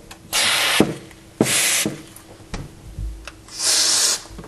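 Aerosol can of silicone lubricant sprayed through its straw nozzle onto window hinges in three short hissing bursts, with a light knock or two between them.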